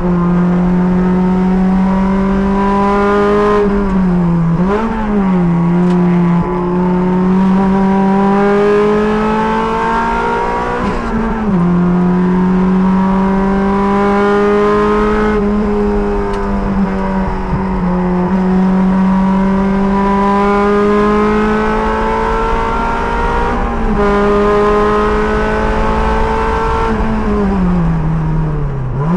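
Sports car's engine under hard load on a race track, heard from inside the car. The pitch climbs slowly through each gear and drops back several times, around 4, 11, 16 and 24 seconds in, with a quick dip and rise near 5 seconds.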